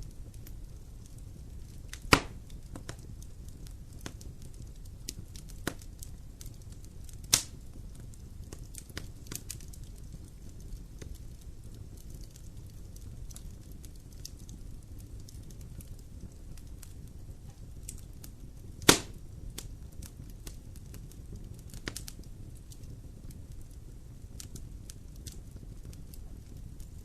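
Fire burning in a fireplace: a steady low rush with scattered small crackles and three loud sharp pops, about two, seven and nineteen seconds in.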